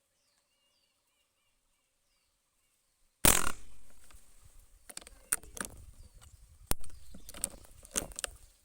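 A single loud gunshot a little over three seconds in, dying away over about a second, followed by rustling and several sharp clicks and knocks. Faint bird chirps come before the shot.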